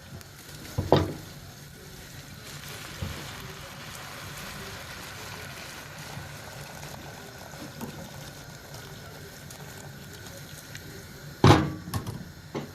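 Just-boiled water being poured steadily into a pot of toasted rice, with a short knock about a second in and a loud clank near the end.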